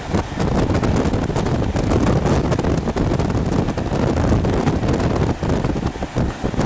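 Wind buffeting a microphone held out of a moving train's window, over the rumble of the Mark 3 coaches running along the track.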